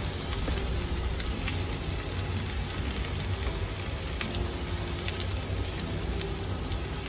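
Fried rice sizzling in a hot wok: a steady hiss with scattered small crackles.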